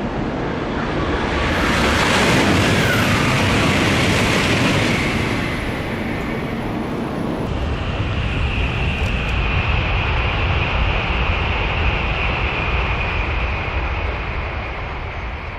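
Tokaido Shinkansen bullet train passing through at high speed: a loud rush of air and wheel noise that swells to its loudest a few seconds in, then carries on as a long steady roar with a high whine over it from about halfway.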